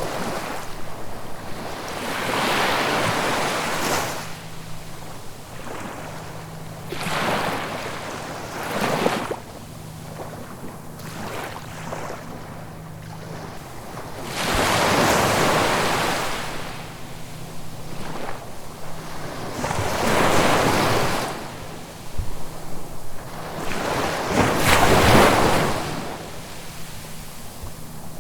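Ocean waves breaking and washing up the shore, swelling and fading in surges every few seconds, the biggest about halfway through and again near the end. A faint steady low hum lies underneath.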